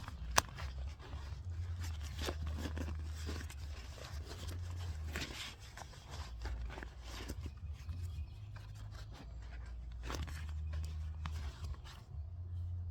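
Hands handling a rubber motorcycle inner tube: scattered rustles and light knocks over a low rumble, with one sharp click about half a second in.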